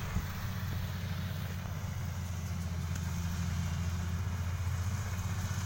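Kubota DC-35 combine harvester's diesel engine running steadily, a low even drone.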